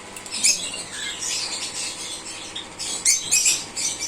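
A flock of caged lovebirds and other small pet parrots chirping and squawking busily. The calls are high and rapid, with loud clusters about half a second in and again around three seconds in.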